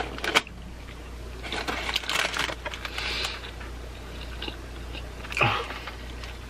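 Close-miked chewing of a mouthful of chicken sandwich, with wet mouth clicks right at the start, a longer noisy stretch of chewing, and a short louder mouth or breath sound about five and a half seconds in.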